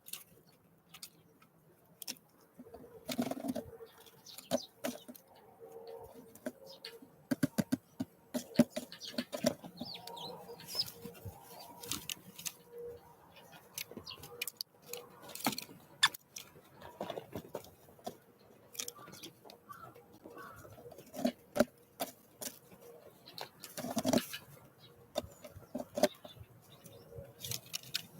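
Small wild birds at a winter feeding station: irregular sharp taps and knocks from pecking and hopping at the feeder, with a few short high calls.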